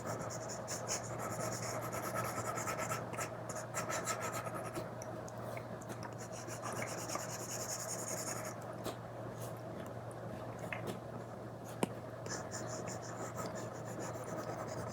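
Stylus tip scratching and rubbing across a paper-textured screen protector on a tablet in many quick strokes, heavier in some stretches; one sharp tap about twelve seconds in.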